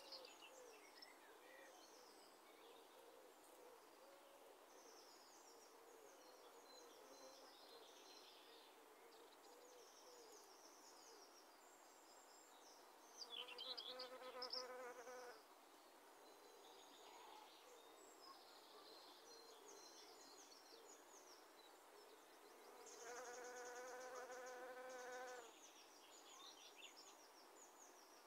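A flying insect, fly-like, buzzing past close by twice, about halfway through and again near the end, each time for two to three seconds at a steady pitch. Faint chirping of small birds runs underneath.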